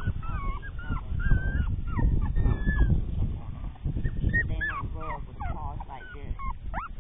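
Litter of young puppies whining and squeaking, many short high cries overlapping, over wind rumbling on the microphone.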